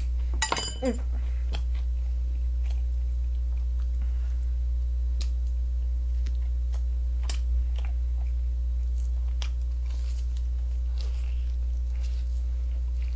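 Chewing and biting into crispy glazed fried chicken, with scattered short sharp crunches and mouth clicks, over a steady low hum. A brief falling-pitched sound about half a second in.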